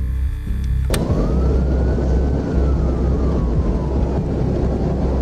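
Police car siren wailing in slow rising and falling sweeps over the loud low rumble of the patrol car's engine and road noise. The siren starts about a second in, just after a click.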